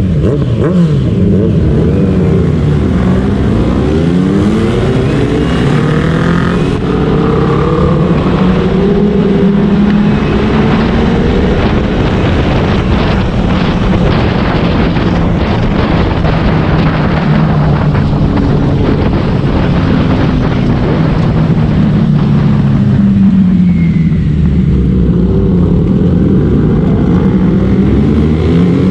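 Motorcycle engine running under way, its pitch climbing and dropping again and again as it accelerates and shifts, over a constant rush of noise.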